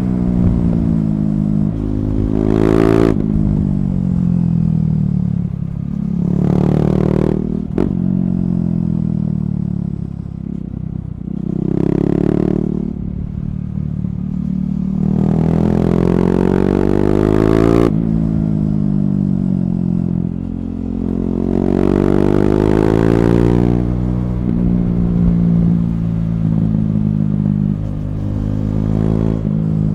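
KTM Duke 390's single-cylinder engine through an Akrapovic slip-on exhaust with the catalyst removed, revving under throttle while riding. The engine pitch rises and falls back several times as the rider accelerates and eases off.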